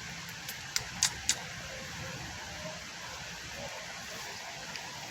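Steady background hum, with a quick run of three or four short, sharp clicks about a second in.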